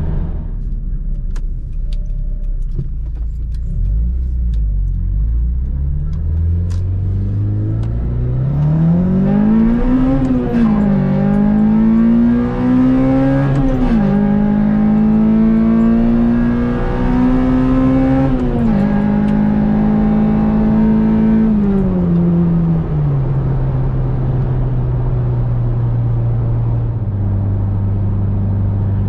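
Acura RSX's four-cylinder engine, swapped in from a 2006 Type S and breathing through a short ram intake and Greddy exhaust, heard from inside the cabin while driving. The engine note climbs, drops sharply twice as gears change, holds steady, then falls to a lower cruise and steps up again near the end.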